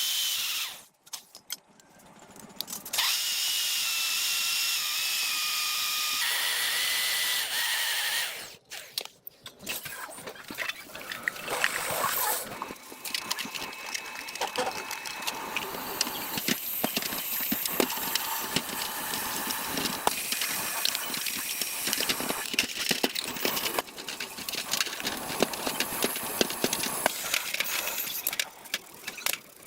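Workshop tool sounds in short edited takes: a hissing power tool with a steady whine that steps down in pitch, then from about ten seconds in, a long stretch of quick clicking and scraping of tools on metal.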